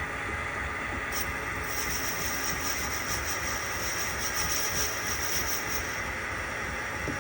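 Machine tool running steadily while cutting a metal cylinder head for a model steam engine, with a high-pitched cutting sound coming in about two seconds in as the tool takes metal off.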